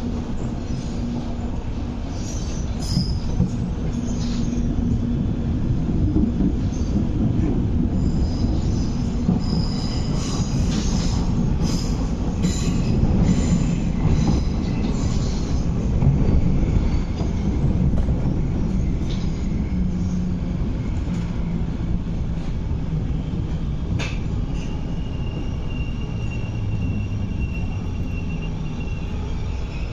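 Inside an MTR East Rail Line MLR electric train under way: a steady rumble of wheels on rail, with scattered rail-joint clicks and wheel squeal on curves. A thin high whine joins in over the last several seconds as the train pulls into the station platform.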